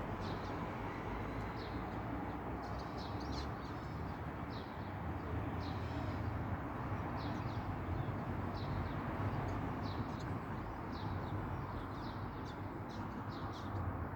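A flock of small birds calling, many short high chirps overlapping at irregular intervals, over a steady low background rumble.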